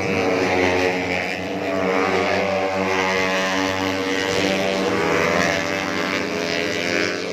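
Several tuned 150 cc four-stroke underbone racing motorcycles running hard at high revs, their overlapping engine notes rising and falling through the gears. The high part of the sound drops away suddenly near the end.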